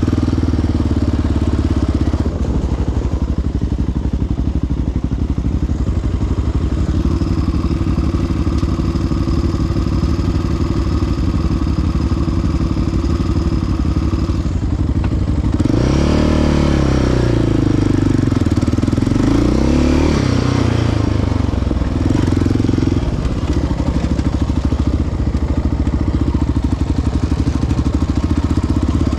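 Single-cylinder four-stroke ATV engine running steadily under way, with its pitch sweeping up and down twice about halfway through as the throttle is worked.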